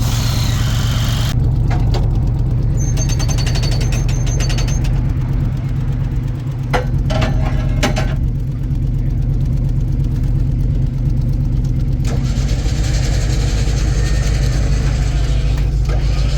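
A vehicle engine idling steadily throughout, with a few metallic clinks and brief squeaks over it.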